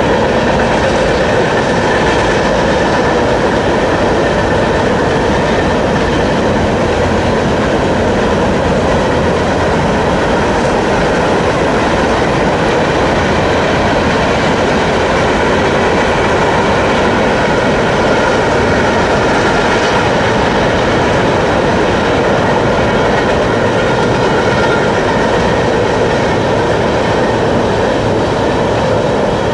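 A train passing, its cars rolling steadily along the track.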